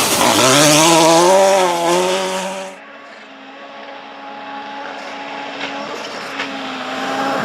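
Rally car engine revving hard, its pitch climbing for about two seconds. Near the three-second mark the sound drops off suddenly to a fainter, steady engine note.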